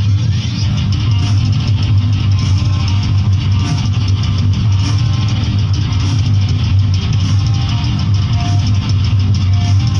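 Rock music with guitar and drum kit, played loudly without a break.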